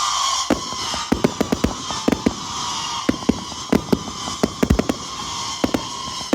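Multi-shot firework cake (the 'Warlock 130') firing: a rapid, irregular run of sharp bangs and crackles, several a second, over a continuous high whistling hiss.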